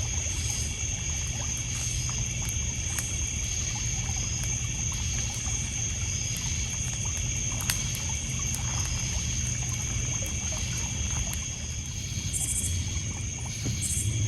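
Night ambience of a lakeside campfire: a steady chorus of crickets and other insects, water trickling and lapping on a pebble beach, and scattered small crackles from the burning wood, one sharper pop about eight seconds in.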